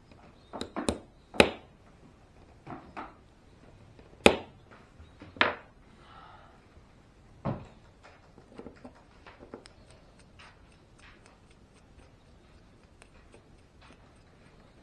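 Small parts and hand tools clicking and knocking against a workbench as they are handled and set down. There are several loud knocks in the first half, then lighter, quicker ticks.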